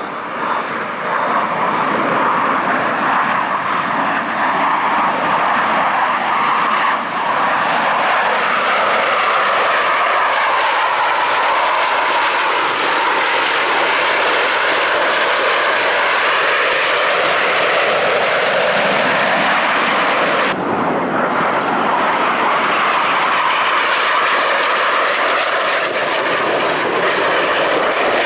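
Blue Angels F/A-18 Super Hornet jets flying the display, a loud continuous jet roar with its pitch sweeping down as they pass. The sound jumps abruptly about two-thirds of the way through.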